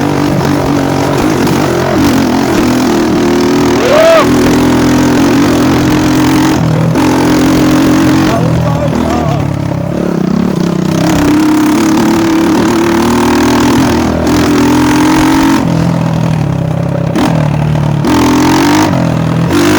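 Dirt bike engine running and revving, its pitch rising and falling in steps.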